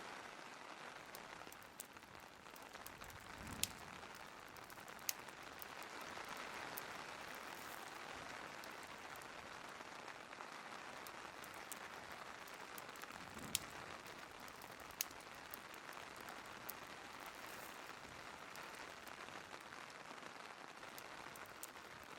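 Steady rain with a wood fire, broken by a few sharp crackling pops, the loudest about a third of the way in and again past the middle.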